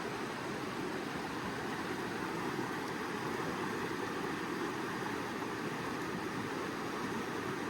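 Steady rush of creek water flowing over rocks, an even noise with no breaks.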